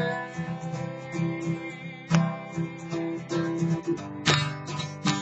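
Acoustic guitar chords ringing between sung lines, with firm strums about two seconds in and again near the end.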